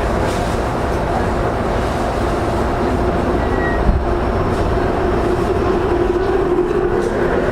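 E231-0 series electric commuter train heard from inside a motor car: loud running rumble from wheels and traction motors, with a motor whine that rises gently in pitch in the second half as the train gains speed.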